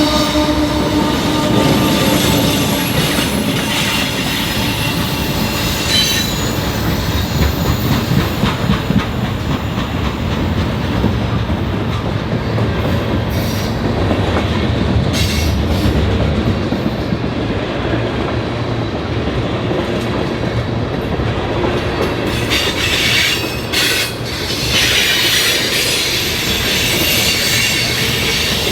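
A train rolling past close by: a steady rumble of wheels on rail, with clacking over the rail joints and some wheel squeal.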